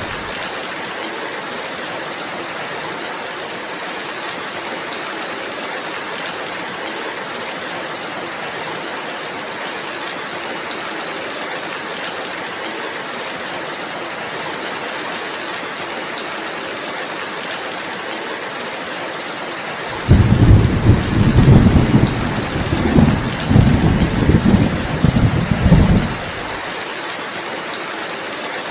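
Steady rainfall throughout, with a roll of thunder about twenty seconds in that rumbles low and loud in several surges for some six seconds, then dies back into the rain.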